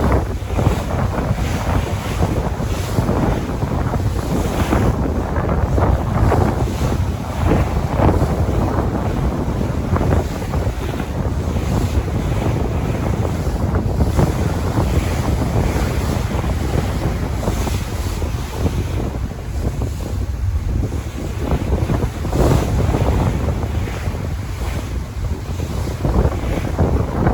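Sea waves washing in and breaking, swelling and easing every few seconds, with wind rumbling on the microphone.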